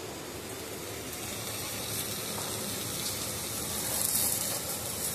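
Potatoes and okra sizzling in a kadhai over a lit gas burner: a steady hiss, a little louder about four seconds in.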